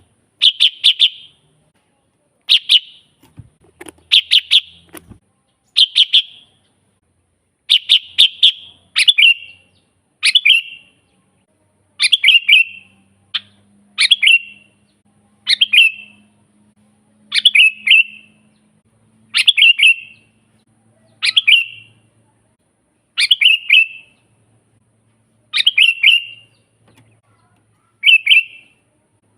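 Sooty-headed bulbul singing: short phrases of a few quick, clear notes, repeated about every two seconds.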